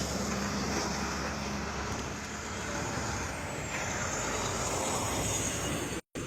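Steady road and engine noise of a moving vehicle heard from inside the cab, cutting out for a moment near the end.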